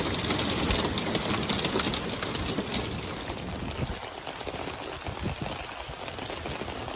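Rain falling: a steady hiss with the patter of drops, slightly softer from about halfway.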